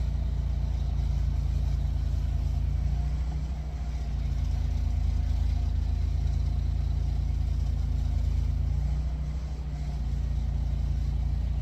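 An engine running steadily with a low hum, easing off briefly twice.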